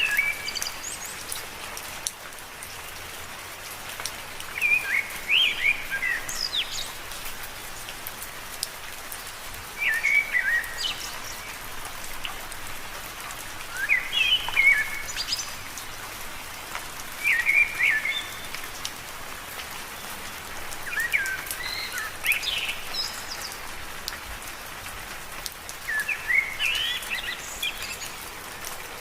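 Steady rain falling on leaves, with a bird repeating a short chirping song phrase every four seconds or so.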